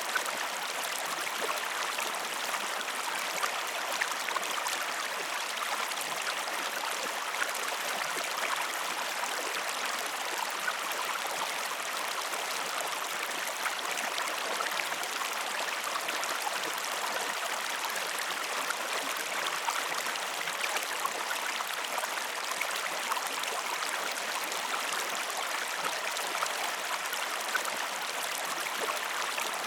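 Steady flowing water of a stream or river, running evenly with many small splashy ticks through it.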